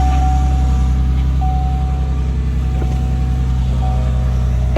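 Pickup truck engine idling steadily, just after being started.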